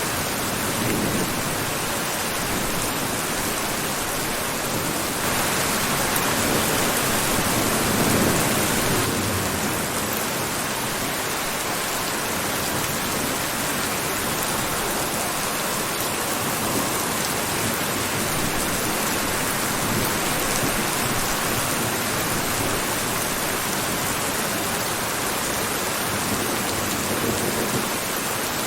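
Steady rain falling. It swells a little louder between about five and nine seconds in.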